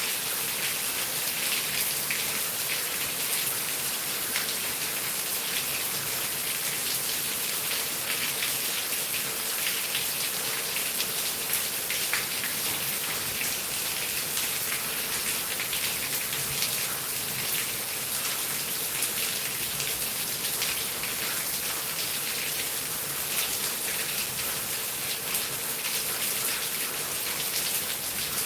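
Heavy rain falling steadily, a dense patter of drops hitting surfaces with no let-up.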